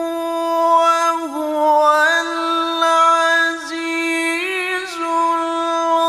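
Melodic Quran recitation (tilawah): a single high voice holding a long drawn-out note, ornamented with several melodic turns and bends.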